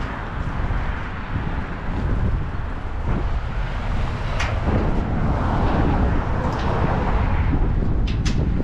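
Truck on the road: a steady low rumble of engine and road noise, with a sharp click about four and a half seconds in and another pair near the end.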